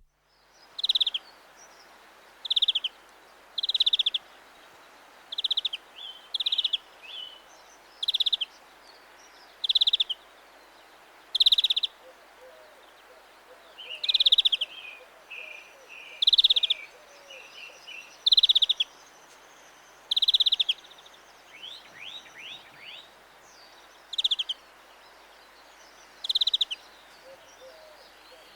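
European greenfinch calling: a short buzzy note repeated about every one and a half to two seconds, around fifteen times, with softer chirps between the notes.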